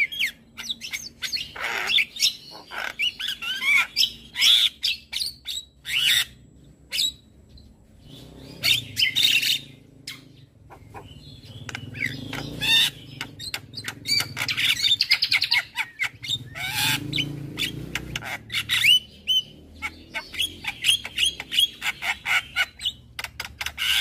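Javan myna (jalak kebo) calling energetically, a varied chatter of whistled sweeping notes, harsh squawks and rapid clicking strokes, with short pauses in between.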